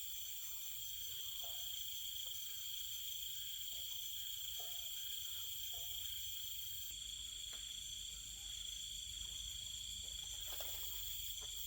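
Crickets and other insects trilling steadily in several high, unbroken tones, with a few faint short calls underneath.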